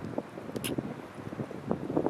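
Wind buffeting the microphone in uneven gusts, with a brief high click about two-thirds of a second in.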